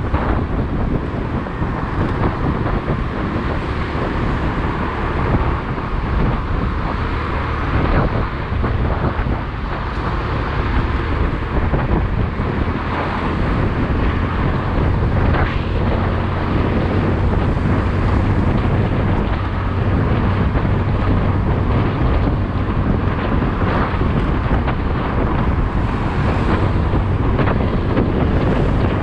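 Wind rushing over the microphone of a moving motorcycle, mixed with its running engine and road noise, steady throughout.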